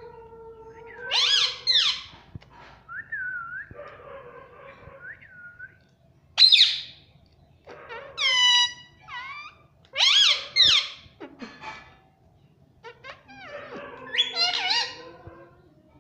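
Indian ringneck parrot calling in a string of high-pitched squawks and talk-like chatter, about five loud bursts with short pauses between. Some calls glide downward in pitch.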